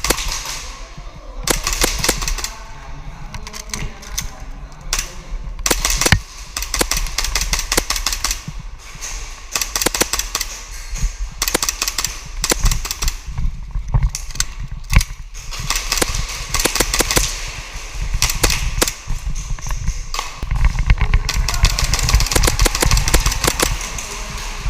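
Airsoft pistols firing during a skirmish: many sharp snaps, single and in quick runs, scattered throughout.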